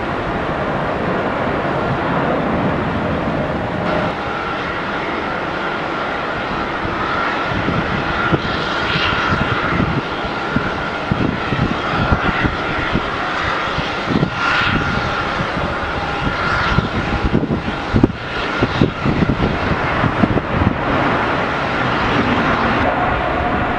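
Airbus A350-900 jet airliner arriving to land, its Rolls-Royce Trent XWB engines giving a steady whine over a rumble that turns rough and uneven in the second half.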